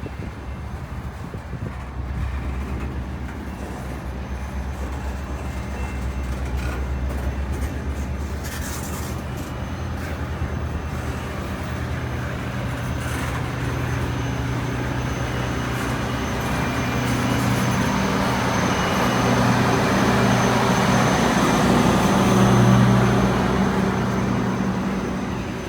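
Holiday Train's diesel locomotives running with the train moving. The engine sound builds steadily to a peak a few seconds before the end, then eases off.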